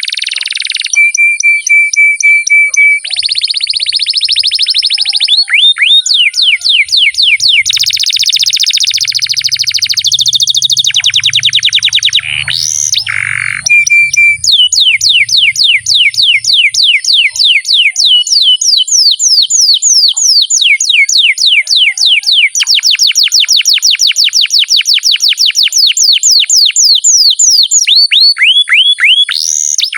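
Domestic canary singing a long, unbroken song made of fast trills: runs of rapidly repeated sweeping notes that change speed and pitch every few seconds, with short steady whistled notes between them.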